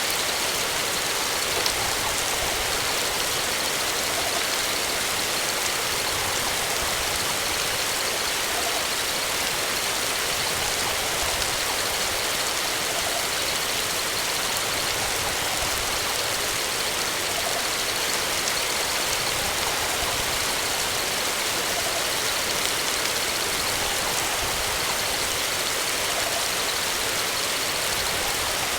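Steady, even rushing hiss that does not change in level.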